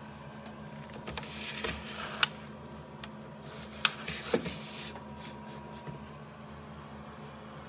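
Small portable electric space heater's fan running with a steady hum, with several sharp clicks and knocks from handling in the first half.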